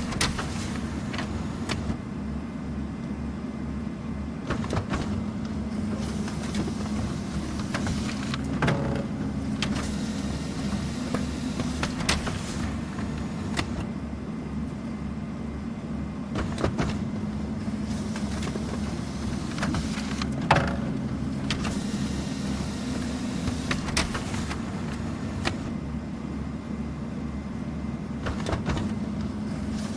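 Office printer running and feeding paper through: a steady motor hum with a fine rapid rhythm underneath, broken by short clicks and knocks every second or few.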